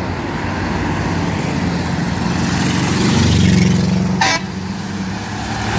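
GMC truck sounding its air horn as it goes by: a steady low horn tone over the engine and road noise, loudest about three and a half seconds in, followed by a short sharp blip. One trumpet of the horn set is described as not standing right, though it still sounds good.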